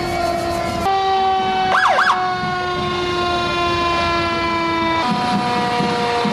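Emergency vehicle sirens sounding: several held tones that sag slowly in pitch and shift about a second in and again near five seconds, with a quick up-and-down siren whoop about two seconds in.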